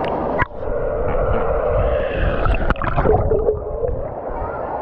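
Water park water running and splashing steadily, with wavering pitched sounds in the middle and a short knock about half a second in.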